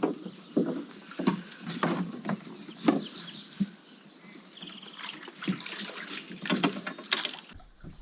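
Irregular knocks and thuds of gear and people shifting in a canoe at the water's edge, with water sloshing against the hull.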